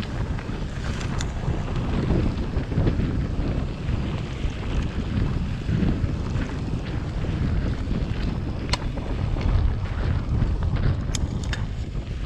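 Wind buffeting the microphone of a riding mountain bike camera, a steady rumble of air and trail noise. There is a sharp click about nine seconds in and a quick few more near the end, like the bike rattling over the trail.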